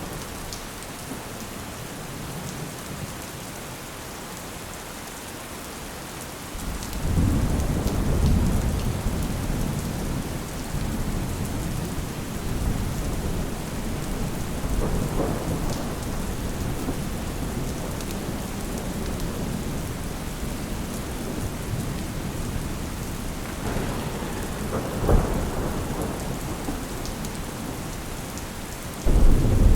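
Steady rain with rolling thunder. A low rumble builds about a quarter of the way in and dies away slowly, further softer rolls follow with a sharper crack a little before the end, and a loud new rumble starts right at the end.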